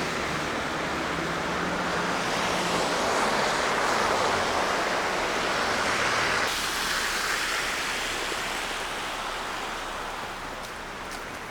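Traffic on a wet, snowy city street: tyres hiss over slush, swelling as a vehicle passes and then fading away.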